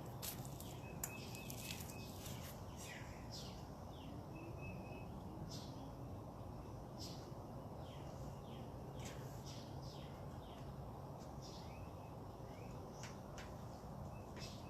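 Wild birds calling: many short, sharp down-slurred chirps and a few brief rapid trills, over a steady low background rumble.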